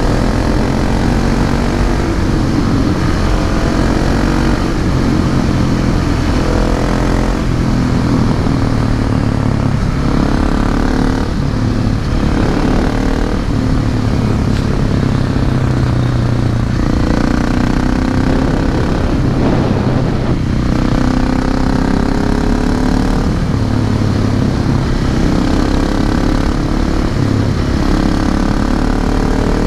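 Husqvarna 701 Supermoto's single-cylinder engine through an SC-Project slip-on silencer, ridden on the road. The revs climb and drop back repeatedly as the rider pulls through the gears.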